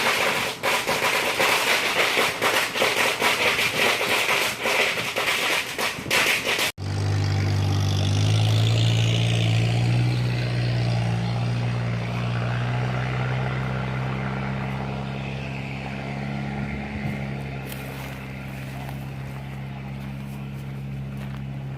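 Dense crackling noise for about the first seven seconds, which cuts off abruptly. After that, a steady low engine hum that slowly fades.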